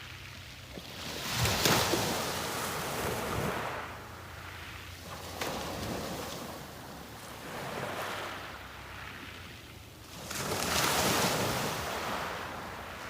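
Sea waves breaking and washing up the beach in slow surges, a strong one about a second and a half in and another near the end, with softer swells between. A faint steady low hum runs underneath.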